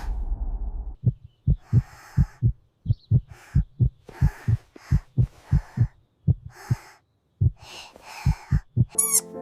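Heartbeat sound effect: a fast, even run of low thuds, about four a second, briefly pausing around two-thirds of the way through.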